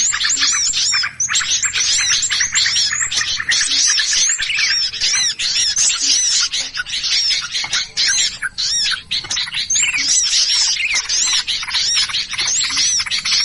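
Many small birds chattering and squawking at once in a dense, continuous chorus of rapid arching chirps: a 'burung ribut' lure recording of agitated, noisy birds, played to draw other birds in.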